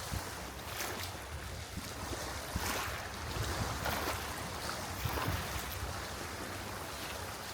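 Small waves washing in and out at the shoreline, with wind rumbling on the microphone.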